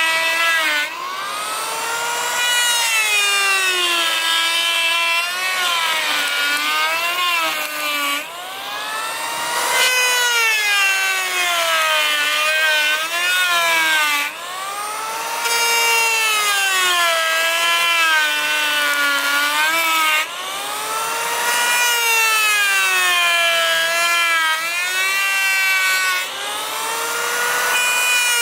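Power tool cutting wood, its motor pitch sagging and recovering in long arcs as it takes load. The cuts repeat with short breaks every few seconds.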